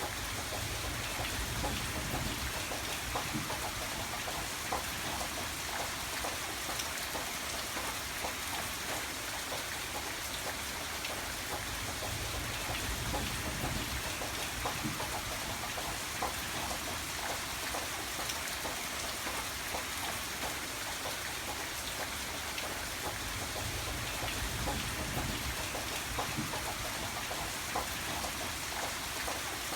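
Steady rain falling on a surface, a continuous hiss with many individual drops pattering, and a low rumble swelling and fading a few times underneath.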